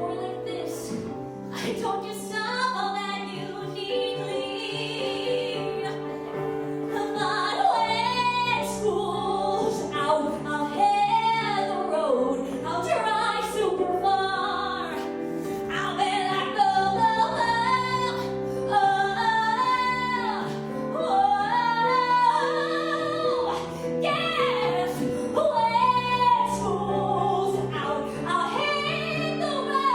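A woman singing with instrumental accompaniment: held chords underneath a voice that slides between notes.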